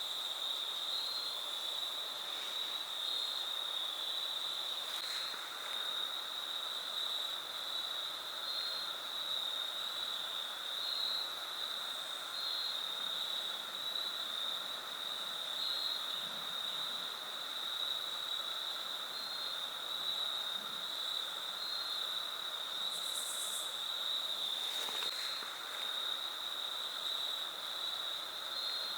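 Crickets trilling in a steady, continuous high-pitched chorus.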